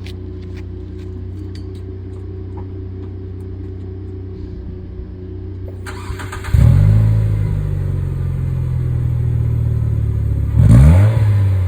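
Nissan Serena C25's 2.0-litre four-cylinder engine through an aftermarket exhaust (modified Kakimoto mid-section, HKS rear muffler), idling steadily. About halfway through it is revved up sharply and held at raised revs. Near the end comes a further quick rev blip whose pitch swings up and back down.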